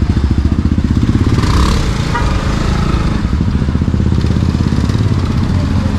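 Motorcycle engine running steadily while riding, a continuous low rumble with rapid even firing pulses.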